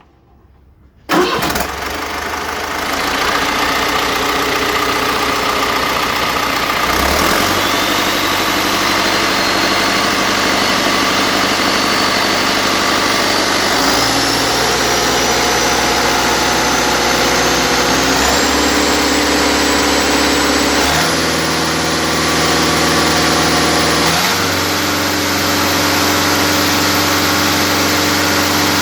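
Deutz BF4L913 air-cooled, turbocharged four-cylinder diesel engine starting about a second in, then running steadily, its speed stepping up and down several times, with a high whine that rises slowly over the run.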